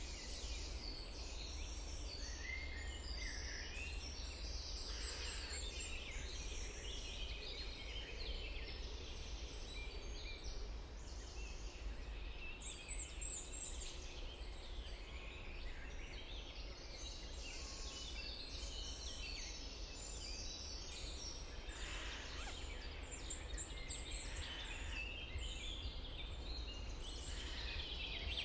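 Many songbirds singing at once, short overlapping chirps and song phrases following one another without a break, over a steady low rumble.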